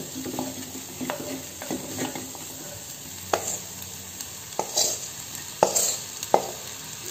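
Onion-tomato masala sizzling in a clay pot as a spatula stirs and scrapes through it, then fried okra is tipped in from a steel bowl, with a few sharp knocks in the second half.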